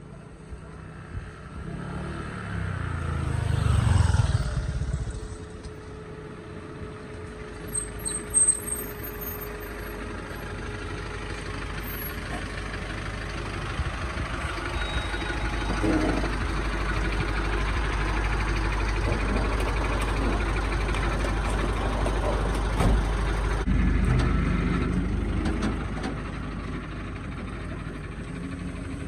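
Motor vehicle running with engine and road noise: one vehicle goes by about four seconds in, then a steady low rumble builds and eases off near the end, with a few short knocks.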